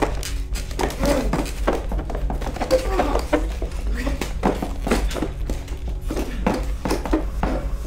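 Indistinct voices and background music over a steady low hum.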